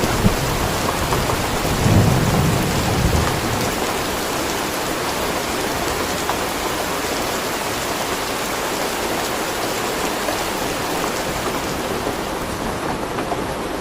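Steady heavy rain falling, with a low thunder rumble swelling about two seconds in and fading out after a second or so.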